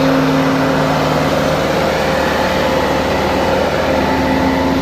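Tractor engine running steadily and loudly, with a constant hum.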